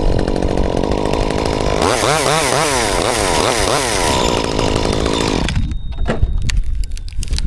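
Chainsaw running, its engine pitch rising and falling several times as it is revved, then stopping about five and a half seconds in, followed by a few scattered knocks.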